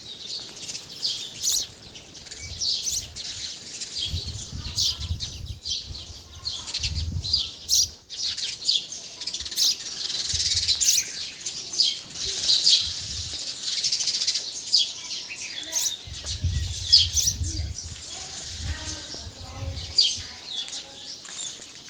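A flock of sparrows chirping and chattering continuously in many short, high chirps, with bouts of low rumbling underneath.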